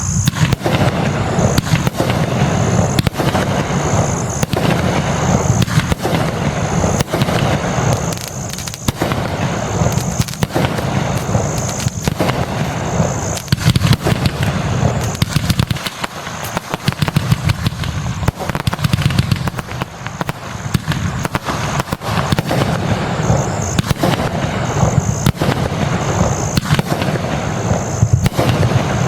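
Legend Fireworks 'USA Crossfire' multi-shot fireworks cake firing a rapid, dense barrage of launches and bursts, with only brief lulls.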